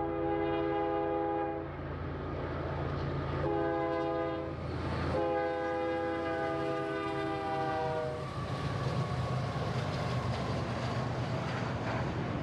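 Locomotive air horn sounding three blasts of a several-note chord, the third the longest and sagging slightly in pitch as it ends, over the steady low rumble of the train. The rumble of engine and rolling cars carries on after the horn stops.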